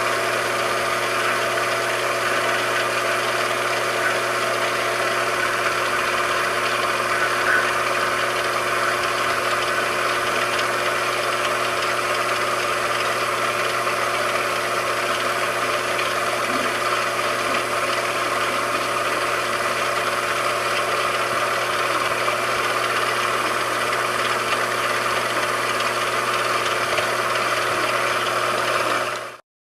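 A machine tool running steadily: an unchanging motor hum with a constant whine over a whirring noise. It cuts off suddenly near the end.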